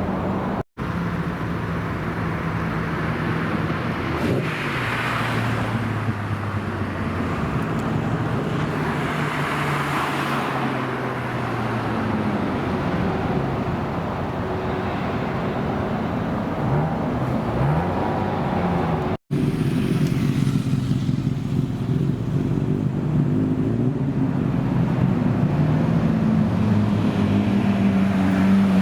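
Car engines running, with steady engine notes, a few swells as cars pull away or drive past, and some short revs. The sound cuts out abruptly twice where clips are joined.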